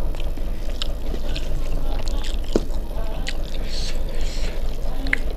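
A person eating hand-mixed rice and dal, with wet chewing and sharp mouth smacks and clicks at uneven moments, over a steady low hum.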